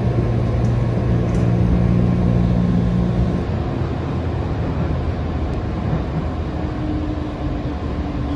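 JR 211 series electric train heard from inside the car: a steady running rumble with a low motor hum. The sound changes abruptly about three and a half seconds in.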